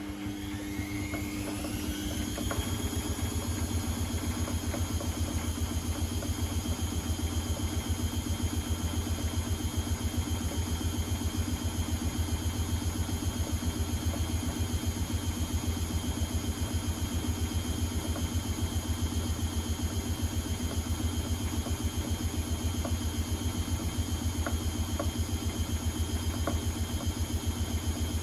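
Privileg Sensation 952 S top-loading washing machine, a motor starting up with a whine that rises in pitch for about two seconds. It then runs steadily with a low, evenly pulsing hum.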